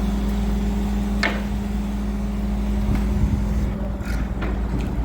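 Crane engine running steadily with a low, even hum while the building is being lifted. A short high squeak about a second in.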